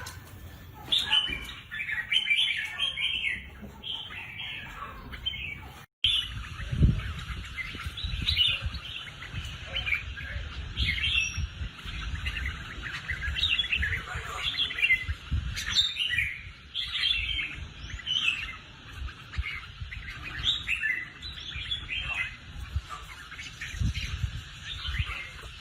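Red-whiskered bulbuls singing: short warbled phrases, one after another. The sound cuts out briefly about six seconds in, and after that a low rumble runs under the song.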